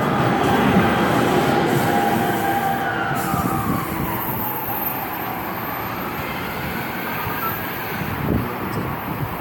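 A passing train running steadily, with a high whine that dips in pitch and then rises again, the sound slowly easing as it goes on.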